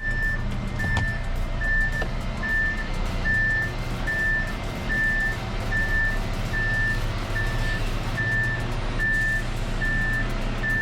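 Concrete mixer truck's warning beeper sounding a steady repeated beep, a little more than one beep a second, over the truck's diesel engine running low and steady.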